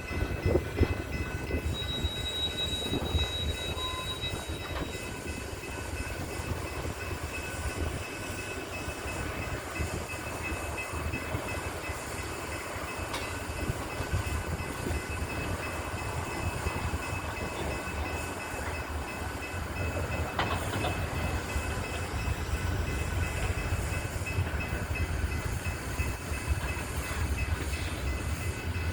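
BNSF coal train rolling by, a steady low rumble from the cars with faint, steady high-pitched tones above it.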